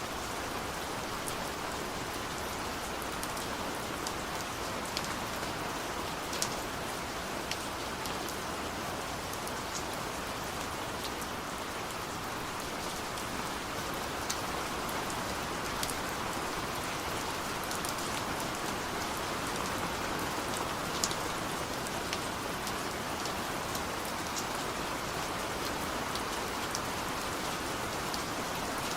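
Steady rain falling, an even hiss with scattered sharper drops ticking on a surface now and then.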